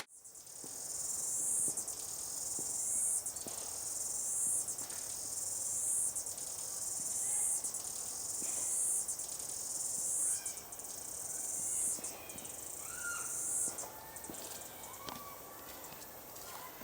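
Insects chirping in a high-pitched chorus that swells and fades about every second and a half, with a few bird chirps near the end.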